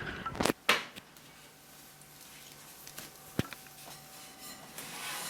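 Two sharp knocks in quick succession about half a second in, then a single click a few seconds later, over faint room noise: kitchen handling sounds.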